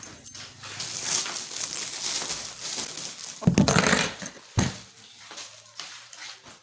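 Rustling and knocking of household things being handled, with a louder clatter about three and a half seconds in and a shorter knock a second later.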